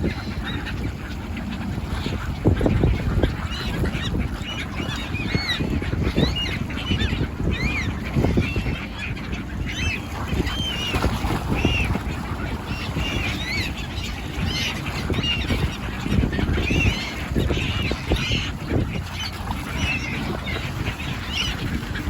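A flock of fish-hunting birds calling over the sea, many short rising-and-falling calls overlapping one another, over a steady low rumble.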